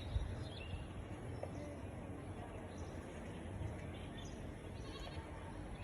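Outdoor background noise with a steady low rumble and a few faint, short bird chirps.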